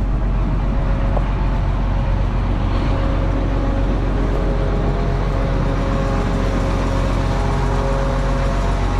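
Case IH 2388 combine's diesel engine running steadily, a constant low drone with a steady whine above it.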